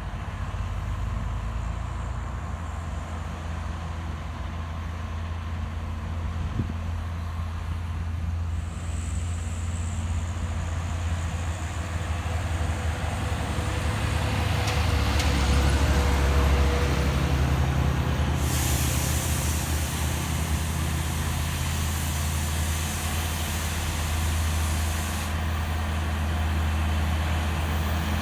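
Heavy diesel truck engine running with a steady low rumble that grows louder toward the middle. About two-thirds of the way in, a loud high hiss starts suddenly, runs for about seven seconds and cuts off.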